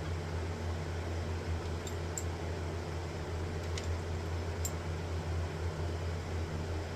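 Mini milling machine's motor running with a steady low hum, with a few faint light ticks in the middle.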